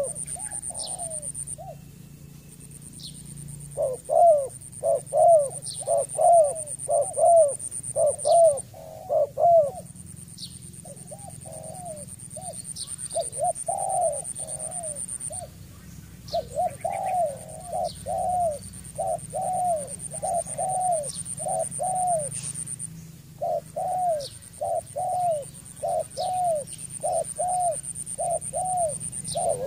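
Spotted dove cooing in rapid series of short, arched notes, about two a second, in runs of several seconds broken by brief pauses.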